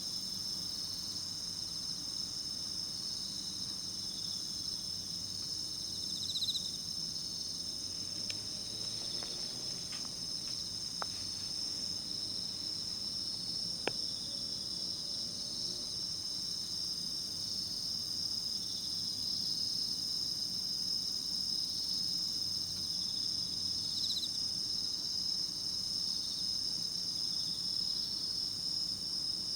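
Night chorus of autumn singing insects: a continuous high, ringing trill with a slower chirp repeating a little lower beneath it. A few faint clicks come through around the middle.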